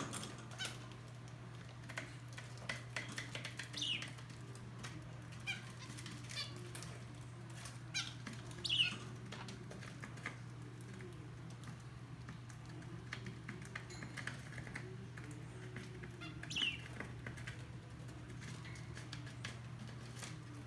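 Aviary birds fluttering their wings, with scattered light ticks and three short chirps that fall in pitch, over a steady low hum.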